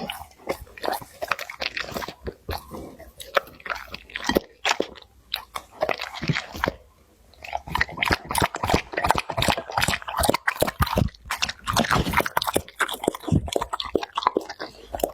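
Labrador retriever eating, with close-up crunching and chewing mouth noises in irregular quick clicks, pausing briefly about seven seconds in.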